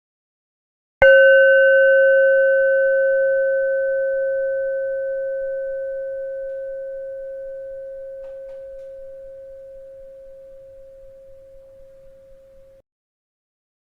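A bell struck once about a second in, ringing on one steady pitch with a few higher overtones and slowly fading for about twelve seconds, then cut off abruptly near the end.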